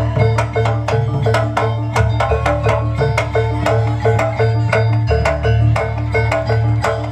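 Jaranan gamelan ensemble playing: tuned metal percussion struck in a quick, even beat over drums.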